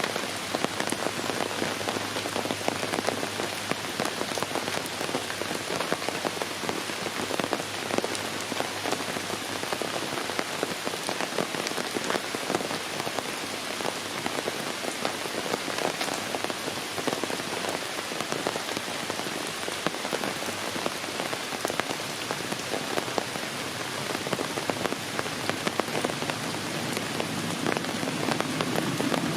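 Heavy rain falling steadily, a dense patter of many individual drops striking surfaces.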